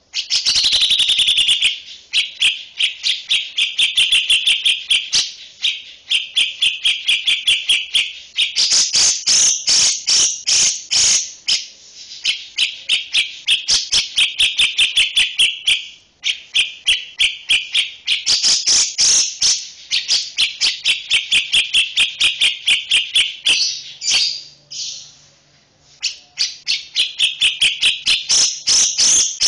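Recorded songbird call: sharp, high chirps repeated rapidly, about six a second, in trains of two to four seconds with short breaks between them. The first train is faster than the rest.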